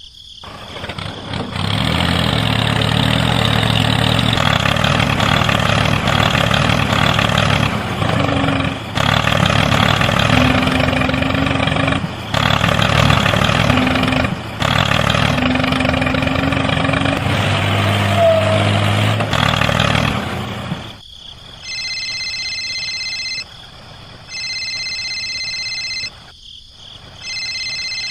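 Tractor engine running steadily, broken off abruptly a few times, then stopping about 21 seconds in. After it come three long pulses of a high electronic beep.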